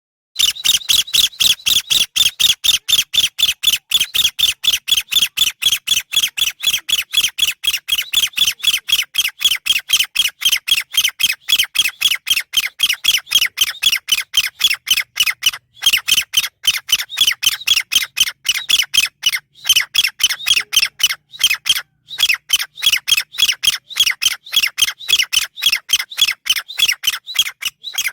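Chinese francolin calling: a long run of sharp, loud calls repeated about four times a second, with a few short breaks partway through.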